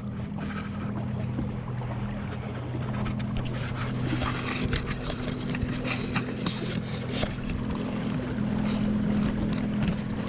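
Watersnake 30-pound-thrust electric trolling motor running at its top speed, a steady hum that starts as it is switched up and holds level, over the rush of the kayak moving through the water.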